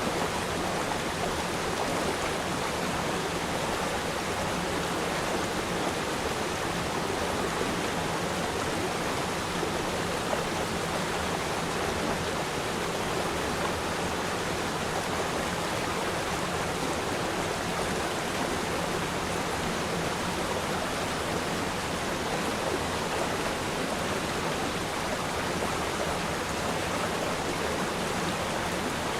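River stream: water flowing and splashing, a steady, even rushing.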